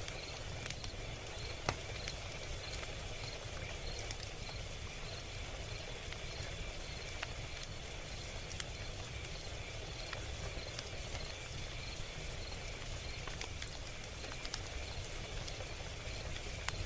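Log fire crackling: irregular sharp pops and snaps over a steady low hiss and rumble of burning, with one louder pop about two seconds in.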